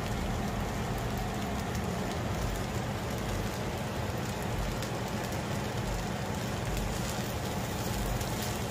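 Chicken and egg fried rice with vegetables sizzling steadily in a hot skillet, with faint crackles, as it is stirred with a silicone spatula.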